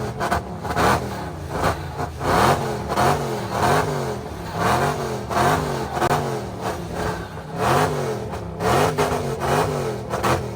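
Tuned car engine being revved in quick repeated blips, the pitch rising and falling over and over about once a second or faster, with sharp cracks in between.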